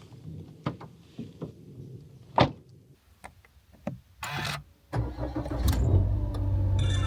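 A few clicks and knocks, one sharp and loud, and a short rustle, then a Suzuki Jimny's engine starting about five seconds in and settling into a steady idle.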